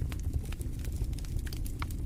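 Fire burning in a fireplace: irregular sharp crackles and pops, several a second, over a low steady rumble of the flames.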